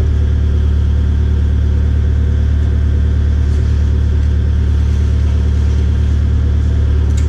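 Kubota KX057-5 excavator's diesel engine running steadily at a constant speed, with a strong low hum.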